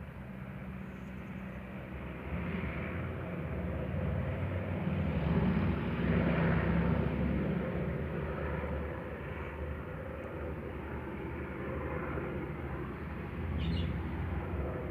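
Helicopter flying over, its rotor and engine drone swelling a few seconds in, peaking mid-way, then easing off somewhat.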